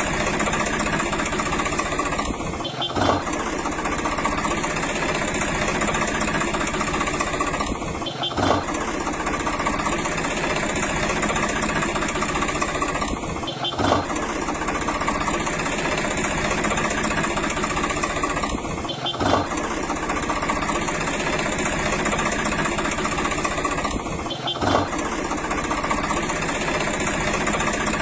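Tractor engine running steadily, a looped recording with a short break and click about every five and a half seconds where the loop restarts.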